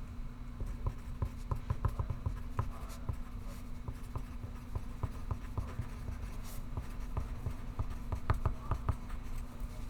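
Pencil writing on paper: quick scratching strokes that come in bursts, busiest near the start and again near the end, over a steady low hum.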